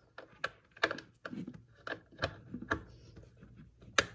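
Hands handling the parts of an indoor hydroponic tomato planter, making light, irregular clicks and knocks, with a sharper knock near the end.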